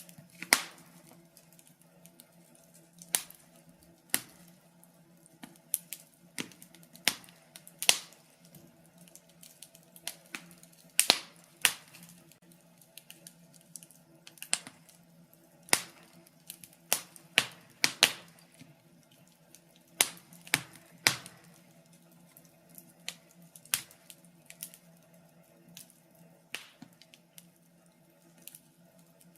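Wood fire crackling in a fireplace: irregular sharp snaps and pops, a few a second, some much louder than the rest, over a faint steady low hum.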